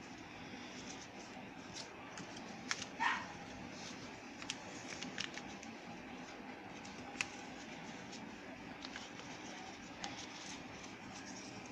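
Sheet of paper being handled and folded, with scattered small crackles and creasing clicks, the loudest cluster about three seconds in along with a brief rising squeak.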